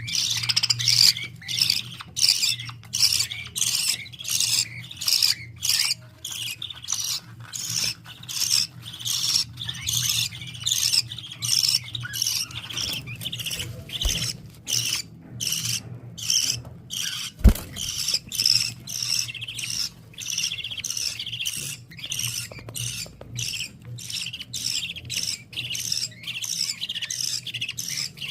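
Baby birds chirping over and over, high-pitched cheeps coming about twice a second, over a low steady hum. A single sharp click about two-thirds of the way through.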